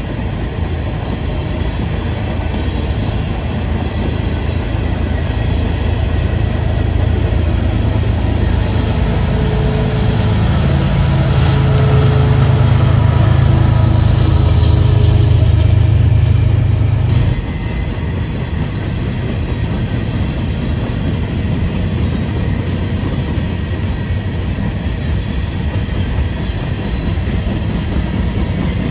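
Freight train rolling past: steel wheels on the rails under a steady rumble. A low diesel engine drone swells through the middle and drops off abruptly a little over halfway through.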